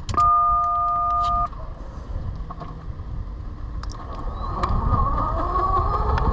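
A loud steady two-tone beep lasting just over a second. About four seconds in, the Velimotors VMX12-F electric motorcycle's motor starts to whine, rising in pitch as the bike accelerates, over a steady low road and wind rumble.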